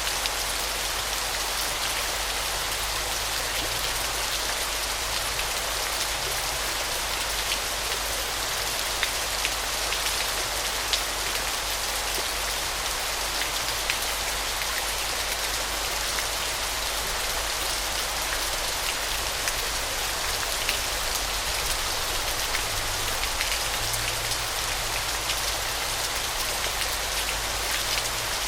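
Waterfall: water falling and splashing steadily in an even rush, peppered with many small droplet splashes.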